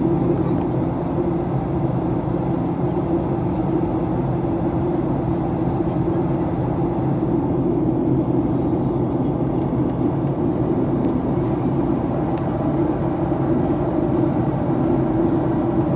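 Passenger aircraft cabin noise on the landing approach: a steady rumble of engines and rushing air with a constant low hum.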